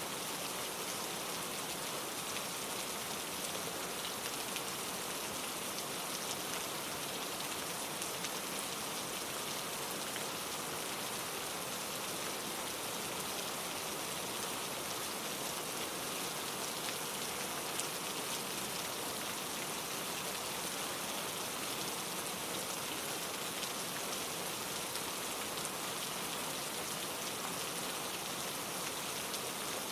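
Steady rain falling, drops pattering on leaves in an even hiss with faint scattered ticks.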